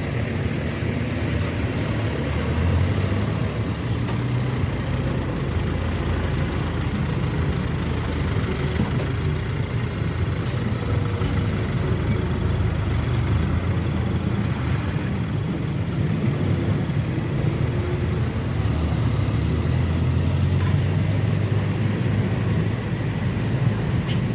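Heavy diesel trucks running on the road, a steady low engine rumble that swells about three seconds in and again near the end.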